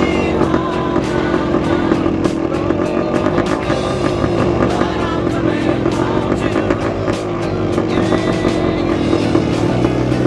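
Dirt bike engine running steadily, with music playing along with it.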